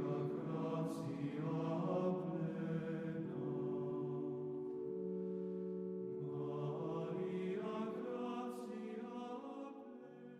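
Choral chant used as outro music: several voices holding long sung notes that change every few seconds, fading out near the end.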